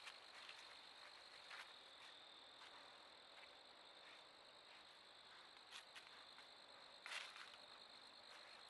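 Faint, steady chorus of crickets, one constant high trill, with a few soft clicks or rustles, the clearest about seven seconds in.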